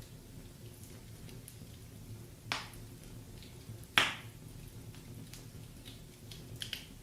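Wood fire in a fireplace crackling: two sharp pops about a second and a half apart, the second louder, then a few small crackles near the end, over a low steady rumble.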